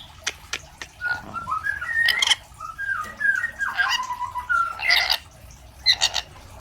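A pet lorikeet-type parrot calling: a run of short whistled notes that slide downward, broken by brief harsh screeches about five times.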